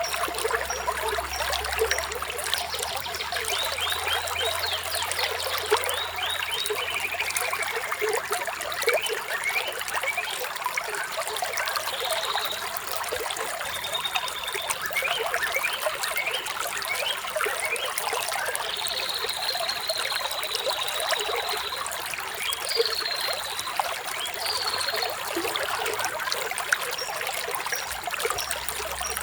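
Flowing water trickling steadily, with birds chirping over it in a few high trills and short whistles, the longest trill a little past the middle.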